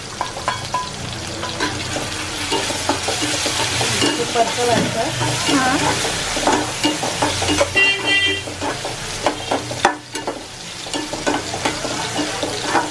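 Washed dried prawns (sode) added to hot oil with onion and tomato in a two-handled kadhai, sizzling as they fry, with a metal spoon stirring and scraping against the pan.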